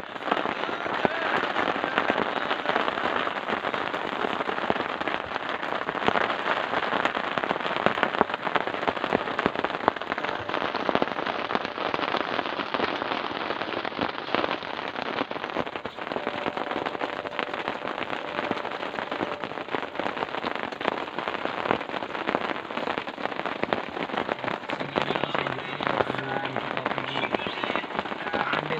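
Heavy rain falling steadily, a dense, even patter of countless drops striking a surface.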